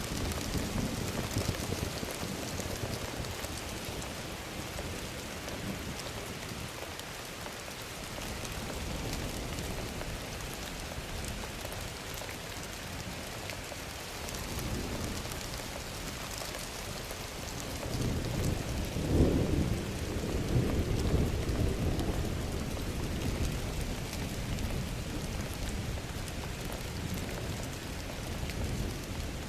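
Thunderstorm sound effect: steady rain falling throughout, with rolling thunder. A low rumble sounds near the start, and a bigger roll of thunder builds past the middle, peaks, and dies away over several seconds.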